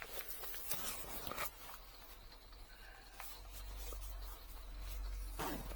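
Rustling and small clicks of waterproof clothing being handled, with a low rumble building in the second half.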